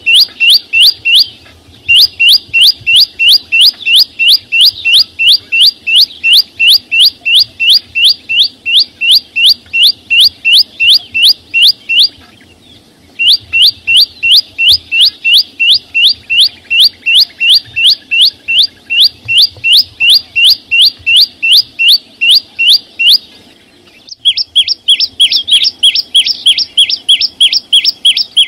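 A chim sâu xanh, a small green songbird, calling loud and fast: a steady run of short, sharp descending notes, about four a second, in long strings broken by a few brief pauses. Near the end the notes change in tone and sound fuller.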